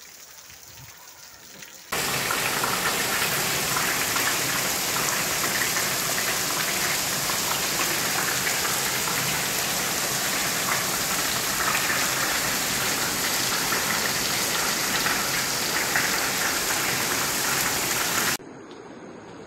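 Heavy rain falling, a steady dense hiss. It comes in abruptly about two seconds in, after fainter rain, and cuts off suddenly near the end.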